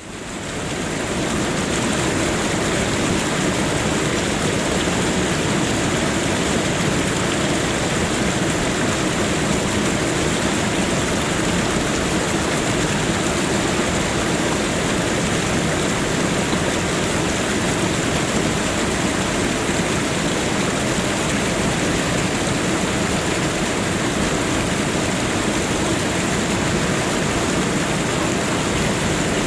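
Waterfall: water falling and splashing in a steady, dense rush that fades in over the first second.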